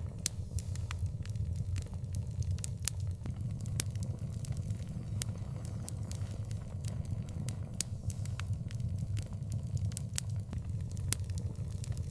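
Bonfire crackling, with frequent irregular sharp pops over a steady low rumble.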